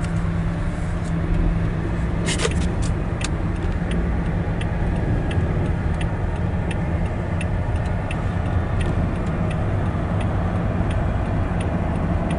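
Car cabin noise at highway speed: a steady low drone of road and engine. A short run of clicks comes about two seconds in, then a faint regular tick about every three-quarters of a second.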